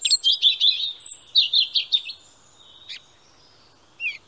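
A songbird chirping: a quick run of high twittering chirps with a brief higher whistle in the first two seconds, then single chirps about three and four seconds in.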